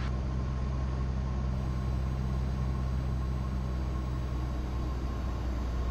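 Cessna 172's piston engine and propeller droning steadily in the cabin, heard as an even low hum that does not change during the descent on the approach glide slope.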